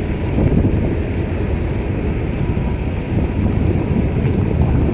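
Freight train rolling past: a steady low rumble of wagons and wheels on the rails.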